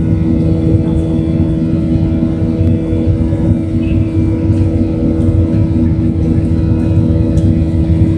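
Boeing 737-700's CFM56-7B turbofan engines at departure thrust, heard inside the cabin as a loud, steady drone with a deep rumble and a held hum.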